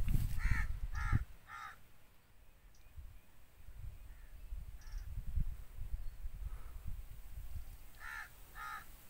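A bird calling in short, repeated calls: three in quick succession in the first two seconds, then two more near the end, over a low rumble.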